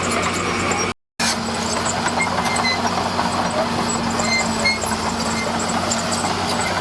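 Heavy earthmoving machine's diesel engine running steadily. The sound drops out completely for a fraction of a second about a second in.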